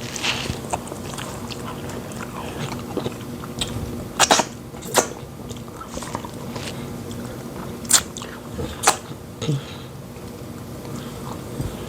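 Close-miked eating: fufu and pepper soup being chewed, with several sharp, short mouth smacks spread over the middle of the stretch.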